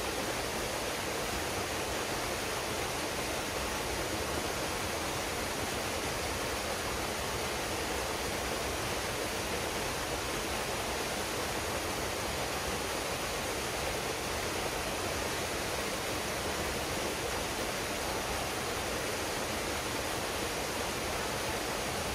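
Waterfall pouring into a pool: a steady, even rush of water that does not change.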